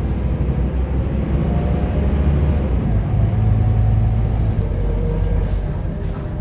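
Scania K230UB city bus's diesel engine and drivetrain under hard acceleration, heard from on board, with its note changing in pitch about halfway through.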